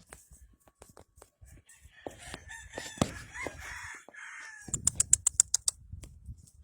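Rooster crowing, a hoarse call from about two to four seconds in, followed by a quick run of about ten sharp clicks.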